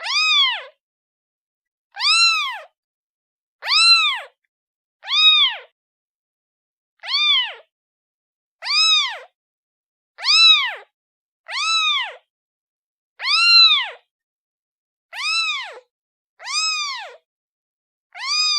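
Kitten meowing over and over, high-pitched calls that each rise and then fall, about one every second and a half, crying for its mother.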